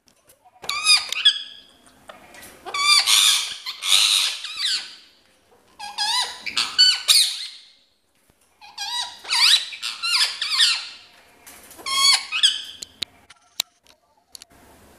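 Ring-necked parakeet squawking: about six bouts of shrill, harsh repeated calls, each a second or two long, with short pauses between.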